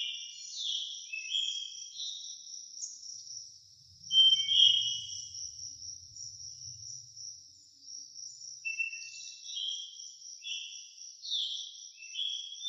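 Forest ambience: a steady, high-pitched pulsing insect trill, with short chirping bird phrases in two bouts, at the start and again from about two-thirds of the way in. A single louder, clear bird note sounds about a third of the way through, over a faint low rumble.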